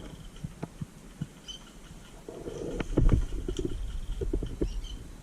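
Rustling and scattered soft clicks, with a heavier thump about three seconds in and a quick run of clicks near the end.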